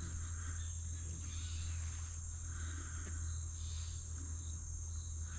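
Insects calling in a steady high-pitched drone, over a constant low rumble.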